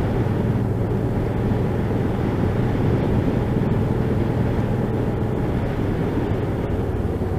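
Motorcycle engine running steadily at road speed with wind and road noise, heard from a mic inside the rider's helmet.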